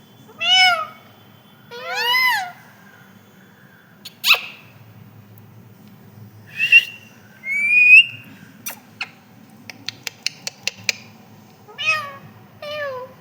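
Pet parrot giving a string of drawn-out, rising-and-falling calls, about seven in all, one of them a sharp high squawk about four seconds in. A quick run of short clicks comes between the calls about nine to eleven seconds in.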